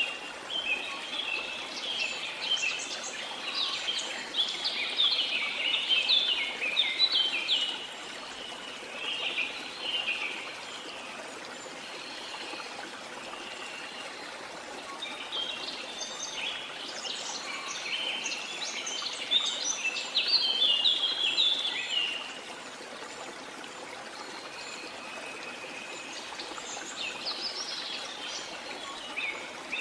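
Birds singing over steady flowing water: dense rapid chirps and trills in two loud spells, with quieter song between and near the end, over an even stream-like hiss.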